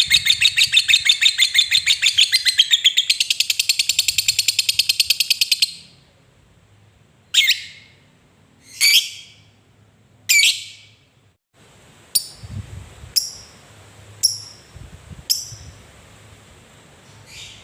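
Lovebird giving a long, rapid chattering trill (ngekek) that stops about six seconds in. Three sharp, separate calls follow, then four shorter, fainter chirps.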